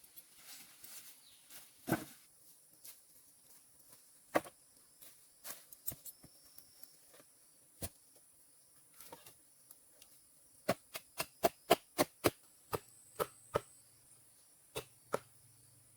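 Sharp knocks, scattered through the first half, then a quick run of about eight strikes, some five a second, followed by a few more spaced out near the end. A faint, steady high buzz of rainforest insects runs underneath.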